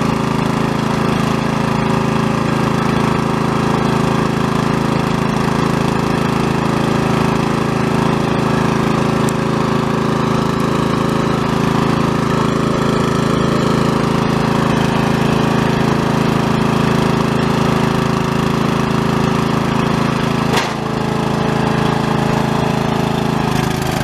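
Riding lawn mower engine running steadily, with a single sharp knock a few seconds before the end.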